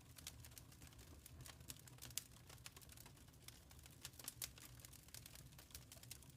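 Wood fire crackling softly: a dense run of small irregular pops and snaps over a low rumble, with a few sharper pops about two seconds in and again past four seconds.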